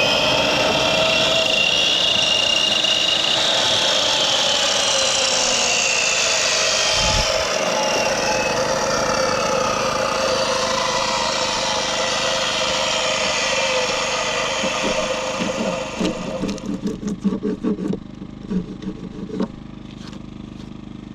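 A motor or engine running steadily, its pitch slowly rising and falling, stopping about three-quarters of the way through; a run of short knocks follows.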